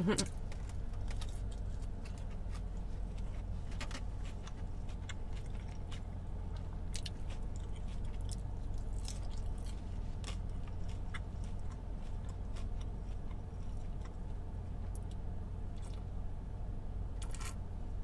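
Close-up chewing and crunching of a crispy fried birria taco dipped in consomé: scattered crisp clicks from the bites, over a steady low hum.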